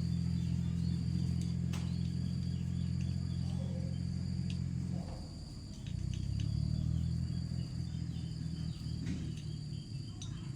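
Small engine running with a steady low hum that drops away for about a second around five seconds in, then picks up again. A steady high insect whine and scattered chirps sound behind it.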